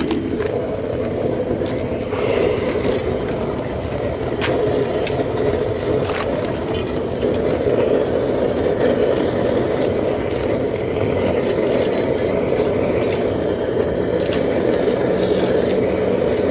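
Homemade propane-fired foundry furnace running steadily, its burner giving a continuous rushing rumble while it melts aluminum, with a few short clicks over it.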